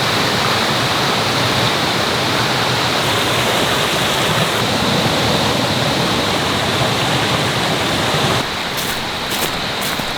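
Mountain stream water rushing steadily over rocks. A little over eight seconds in, the rush becomes slightly quieter and a few short, high ticks appear over it.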